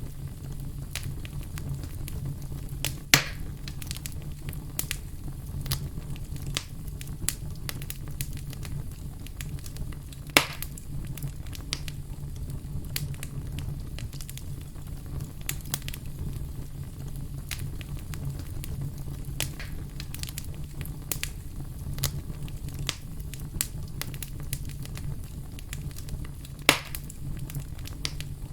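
Fire burning in a fireplace: a steady low rumble of flames with constant small crackles, and three loud sharp pops about 3, 10 and 27 seconds in.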